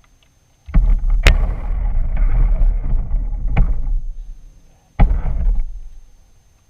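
Rumbling and rattling picked up by a GoPro riding on a remote control truck as it drives, in two bursts that start abruptly and fade out, with a sharp knock about a second in.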